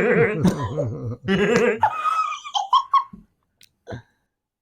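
People laughing hard in a small room: a burst of laughter that breaks up into higher giggles and dies out after about three seconds.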